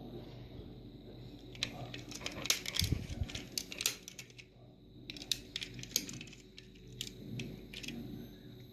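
Toy car being handled: quick light clicks and rattles in two bursts, as small parts like doors and wheels are moved.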